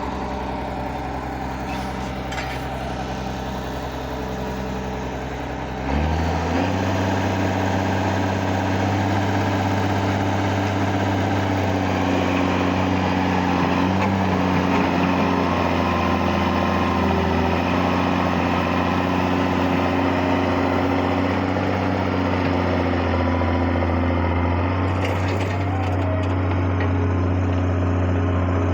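Excavator diesel engine idling, then revved up about six seconds in and held steady at higher revs.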